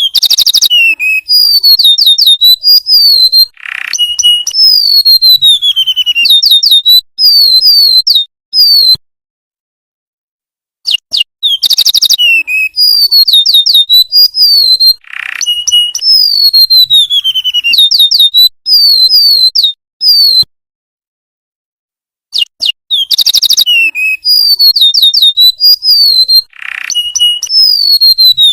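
Golden-bellied gerygone (remetuk laut) singing: loud, rapid phrases of high, falling whistled notes mixed with quick trills. The same song phrase plays three times, each broken off by a couple of seconds of dead silence, as in a looped training recording.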